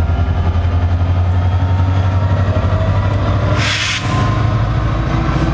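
NJ Transit PL42AC diesel-electric locomotive and multilevel coaches passing, with a steady low engine drone. A short burst of hiss comes about three and a half seconds in.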